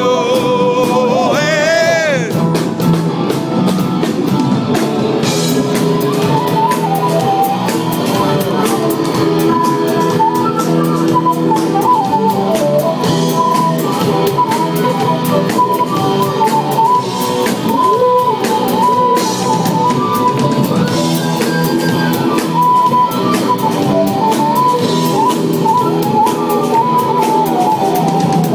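Live rock band playing an instrumental passage: drum kit and guitar under a high, wavering lead melody line.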